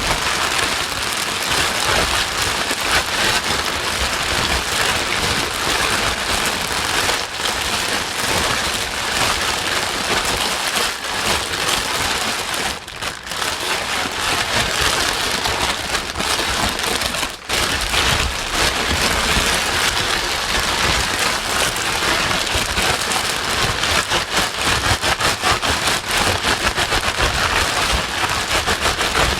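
Steady rain-like white noise: a loud, dense hiss with a fine crackling patter. It dips briefly twice, a little before halfway and again a few seconds later.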